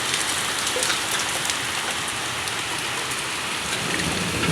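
Heavy rain falling steadily, a dense even hiss with the patter of individual drops, and a low rumble starting to build near the end.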